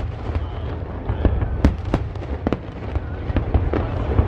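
Aerial fireworks bursting: an irregular string of sharp bangs and cracks, several a second, over a continuous low rumble.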